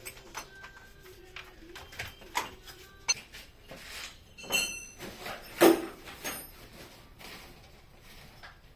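Irregular knocks and clinks of hard objects, a few of them ringing briefly like metal, with the loudest knock a little over halfway through.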